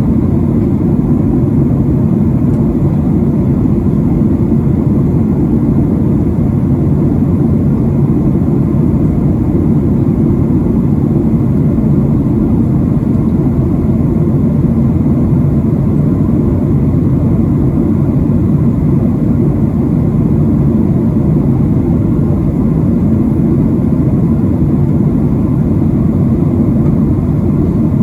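Steady, loud low rumble inside the cabin of a Boeing 737-700 airliner in descent, from its engines and the airflow over the fuselage. It does not change.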